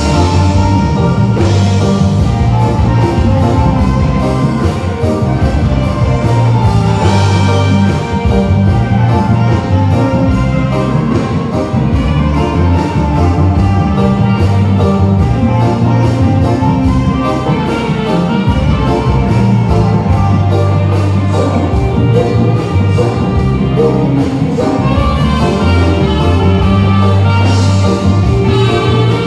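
Live band playing an instrumental number loudly through a PA sound system during a sound check, with a heavy, steady bass line under the other instruments.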